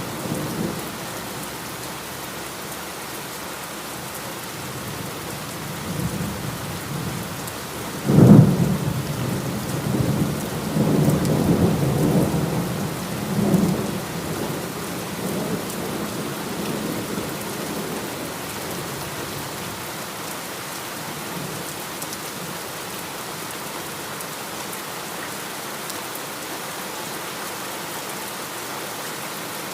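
Heavy rain falling steadily, with thunder: a faint rumble at the start and another about six seconds in, then a loud clap about eight seconds in that rolls on in rumbles for several seconds before dying away, leaving only the rain.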